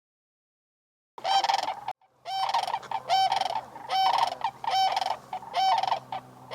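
Sandhill cranes giving their rattling bugle calls, about six calls in quick succession, starting about a second in after a silent start.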